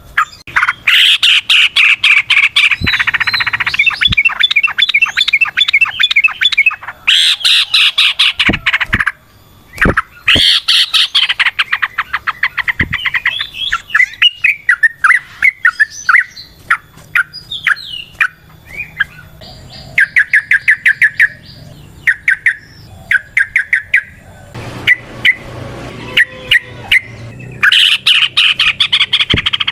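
Yellow-vented bulbul (trucukan) singing in long, fast runs of chattering notes, each run lasting a few seconds, with a looser scatter of short call phrases through the middle before the long runs return near the end.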